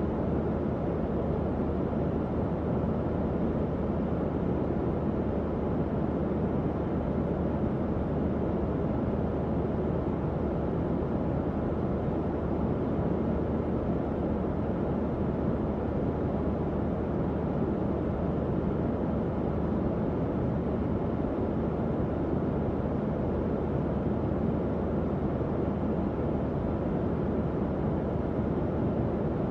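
Tower fan running steadily: an even, unchanging whoosh of moving air with a low hum from the motor.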